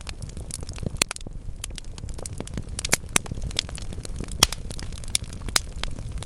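Wood fire burning in a fireplace: burning logs crackling with irregular sharp pops, the loudest about a second in, around three seconds and past four seconds, over a steady low rumble of the flames.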